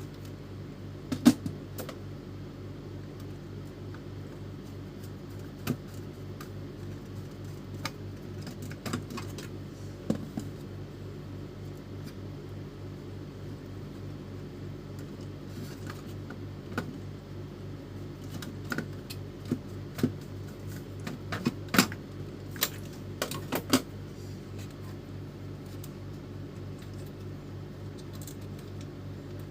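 Scattered small clicks, clinks and knocks of printer parts and hand tools being handled during repair work, thickest about two-thirds of the way in, over a steady low hum.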